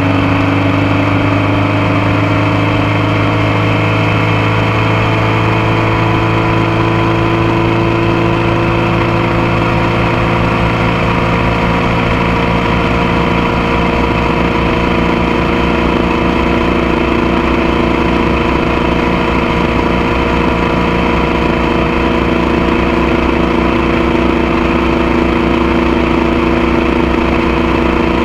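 Motorcycle engine and exhaust running steadily, heard from a camera mounted on the bike's passenger foot peg; the engine note rises slightly over the first ten seconds or so, then holds steady.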